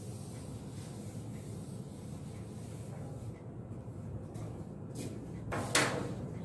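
Blackboard duster wiping chalk writing off a chalkboard: faint rubbing over a steady low room hum. About five and a half seconds in there is a short, louder scuffing rustle.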